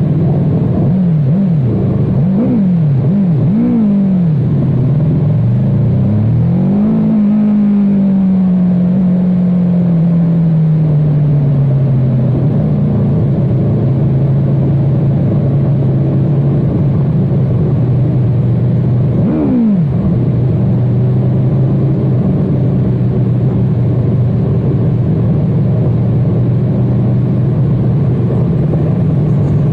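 Superbike engine revving up and down several times in quick succession. Its pitch then falls slowly as it eases off and settles into steady running, with one short throttle blip about two-thirds of the way through.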